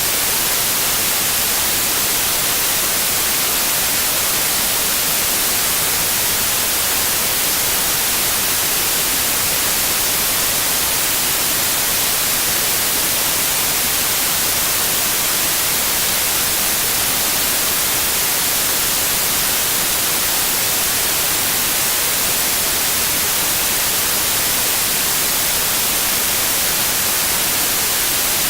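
Steady, unchanging white noise: an even hiss across the whole range, strongest in the highs.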